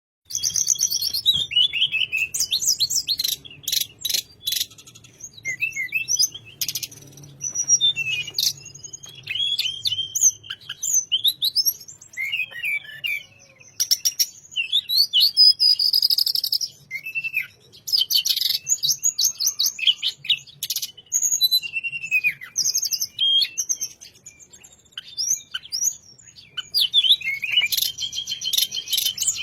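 Tledekan gunung songbird singing a continuous, rich song. It delivers fast, varied, warbling phrases in bursts with short pauses, mixed with sharp, clicking notes.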